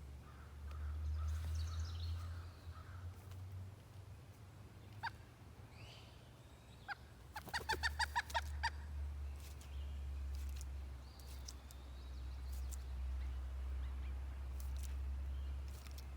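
Pileated woodpecker giving a quick series of about eight loud, evenly spaced calls a little past the middle, over a steady low rumble and a few faint high chirps from other birds.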